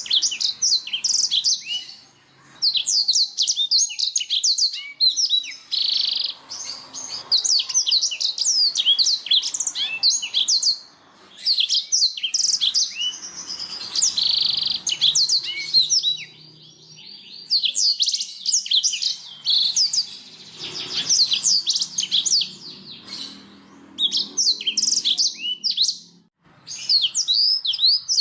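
Domestic canary singing: long phrases of rapid, high chirps and trills, broken by brief pauses every few seconds.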